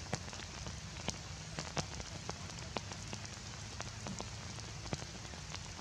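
Heavy rain falling steadily, with many sharp taps of single drops scattered through the hiss.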